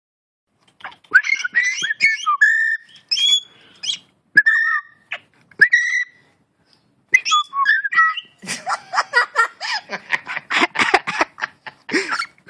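A pet bird whistling: a series of short pitched whistles and glides, some held briefly. From about eight seconds in comes a fast, noisy chatter.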